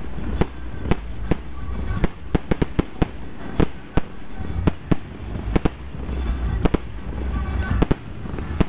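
Professional display fireworks bursting overhead: an irregular string of sharp bangs, about two a second and sometimes several in quick succession, over a continuous low rumble.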